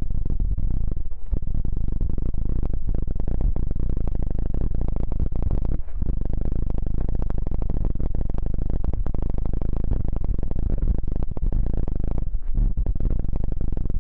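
Ear-cleaning tools rubbing and scraping inside a silicone ear on a binaural microphone, right against the microphone. The sound is a loud, heavy rumble full of fine scratchy crackle, with brief breaks about a second in, near the middle and near the end.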